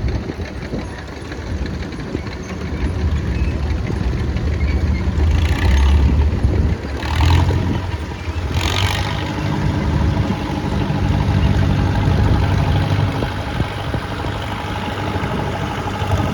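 Caterpillar D2 crawler tractor's diesel engine running steadily as it drives past in a parade. Three short hiss-like bursts sound over it about midway.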